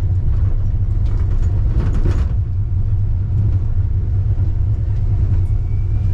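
Wuppertal Schwebebahn suspended train running along its overhead track, heard from inside the car as a steady low rumble. About two seconds in, a brief louder rushing noise rises over it.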